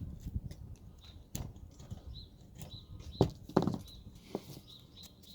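Hand carving tool cutting and scraping wood: quiet scraping with a few sharp clicks, the loudest pair about three and a half seconds in. Faint repeated bird chirps behind it.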